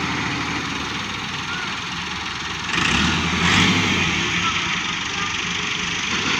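Tractor diesel engines running steadily, getting louder for about a second and a half a little under three seconds in.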